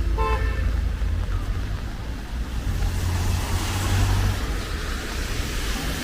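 Street traffic on a rain-wet road: a steady low rumble, with tyre hiss swelling from about halfway through as a vehicle passes, and a short pitched squeal right at the start.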